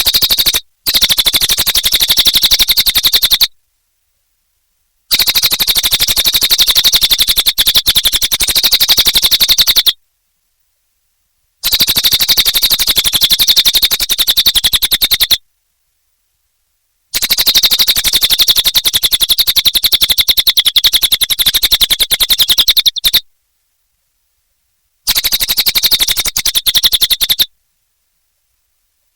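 Cililin bird song: long, very rapid trills with a bright, high centre, in bursts of three to six seconds separated by silent gaps of about two seconds.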